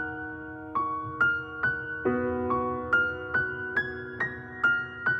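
Background music: a slow, soft piano melody of single struck notes, about two a second, over held chords, without singing yet.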